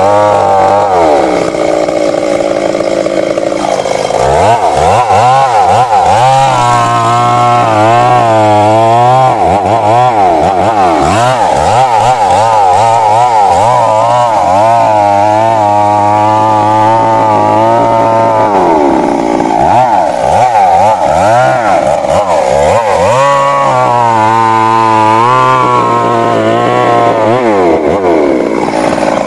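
Stihl MS 382 two-stroke chainsaw running at high revs and cutting into wood. Its engine pitch repeatedly sags and recovers as the bar loads up in the cut, with a steadier stretch in the middle.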